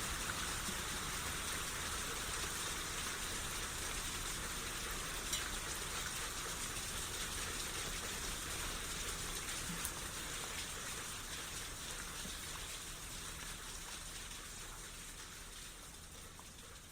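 Steady rain shower falling, an even hiss with the odd louder drop, fading out gradually over the last several seconds.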